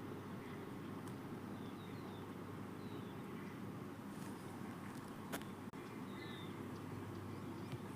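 Outdoor ambience: a steady low rumble with faint, short, high chirps from small birds every second or so, and a couple of brief clicks about five seconds in.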